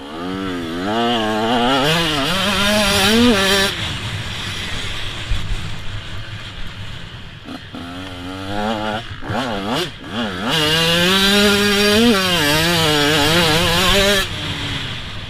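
KTM 125 SX two-stroke motocross bike revving hard, its engine note wavering up and down. It makes two long full-throttle pulls, at the start and again about ten seconds in, with quick throttle blips and easing off in between.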